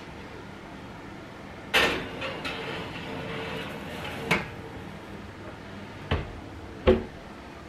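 Household knocks and clatters: four sharp knocks, about two, four, six and seven seconds in, with some rustling and handling noise between the first two.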